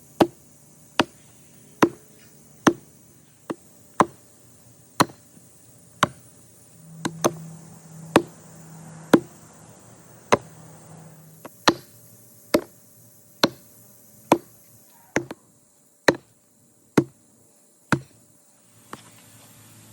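Sharp, heavy knocks struck at a steady pace of a little more than one a second, about twenty in a row, with a short pause near the end.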